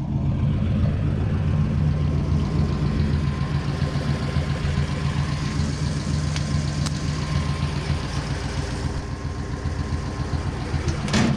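1940 Ford's flathead V8 idling steadily. A single sharp knock comes near the end.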